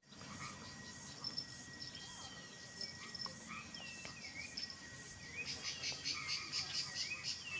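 Insects and birds calling at dusk by a river: a steady high insect whine, short falling whistled bird calls repeating throughout, and from about five and a half seconds in a loud pulsing insect trill of roughly five pulses a second.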